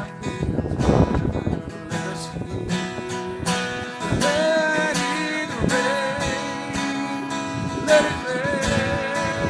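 Acoustic guitar strummed steadily, joined about four seconds in by a held, wavering sung note.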